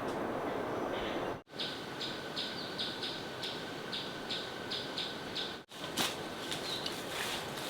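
Outdoor forest ambience. A bird chirps over and over, about two or three short high chirps a second, between two abrupt cuts. Before the first cut there is a steady rushing noise, and after the second come scattered clicks.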